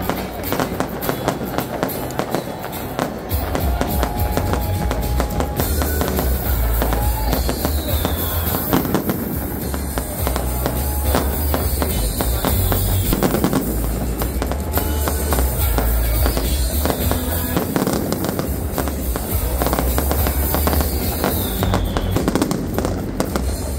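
Fireworks bursting and crackling over loud music with a heavy bass.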